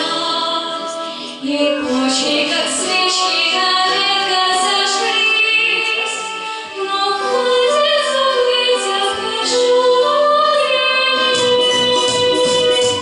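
A woman singing a Russian pop song over backing music, the melody held in long notes; a bass and beat come in about eleven seconds in.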